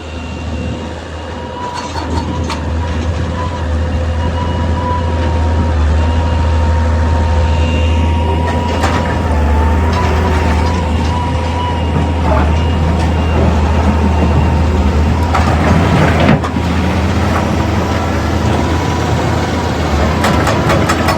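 Excavator's diesel engine running steadily with a low drone and a high steady whine, with a few clanks and knocks, a burst of them about three-quarters of the way through.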